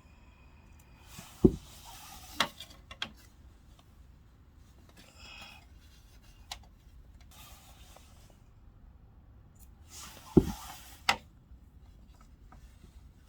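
Handling noises from work on an air conditioner: several sharp knocks, the loudest about a second and a half in and again about ten seconds in, with brief rustling and rubbing between them.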